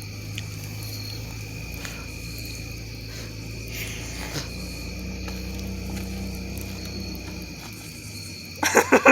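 Crickets chirping steadily, with a low hum and a few faint pops from the campfire. Near the end a person's voice breaks in with a whiny, rising and falling exclamation.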